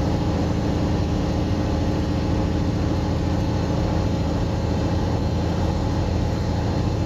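Diesel engine of a semi truck heard from inside the cab, running at a steady drone as the truck drives along.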